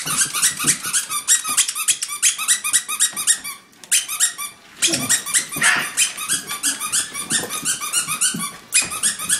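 Squeaky dog toy squeaked over and over as a dog chews it, in a fast even series of short high squeaks about six a second, pausing briefly twice.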